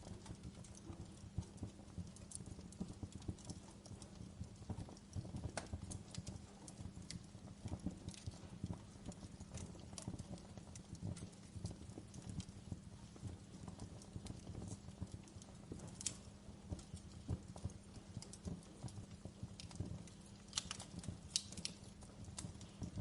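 Wood fire burning in a fireplace, crackling steadily with quick irregular snaps and pops over a low, even rumble. A few sharper pops stand out around two thirds of the way through and again near the end.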